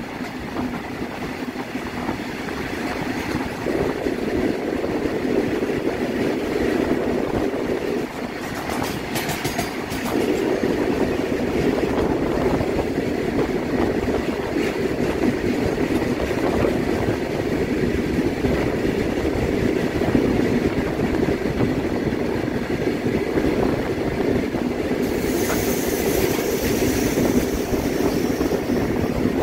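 Goods trains and electric locomotives running side by side on parallel tracks: a steady rumble of wheels and wagons with rail clatter. A higher hiss joins near the end.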